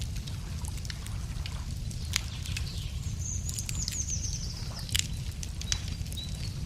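Wood campfire crackling, with sharp pops about two and five seconds in, over a steady low rumble. A bird sings a short trill that falls slightly in pitch in the middle, and gives a brief whistled note near the end.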